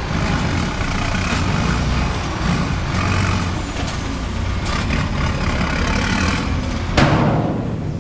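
Heavy truck's diesel engine running steadily. About seven seconds in comes a sudden loud hiss of air that fades away.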